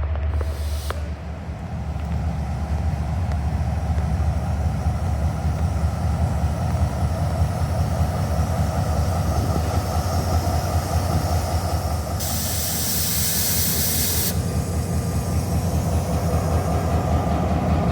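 A passenger train running with a steady low rumble, heard from on board. A loud hiss comes in about twelve seconds in and stops suddenly about two seconds later.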